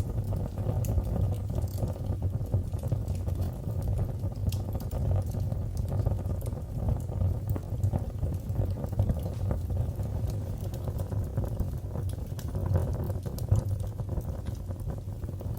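Fireplace fire crackling, with scattered sharp pops and snaps over a steady low rumble of the flames.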